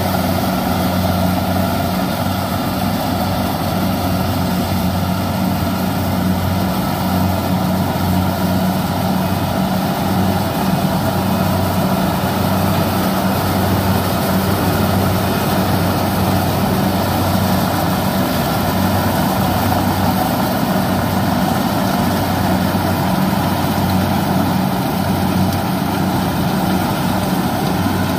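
Kubota rice combine harvester running steadily, its diesel engine giving a constant low hum.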